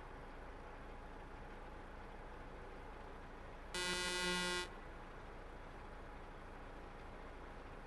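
A vehicle horn sounds once for just under a second, about four seconds in, over the steady low hum of a truck cab on the road.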